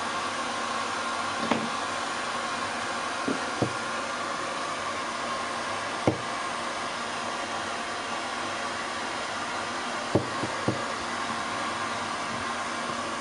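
Hair dryer blowing steadily on a long-haired cat's fur. A handful of short knocks or clicks sound over it.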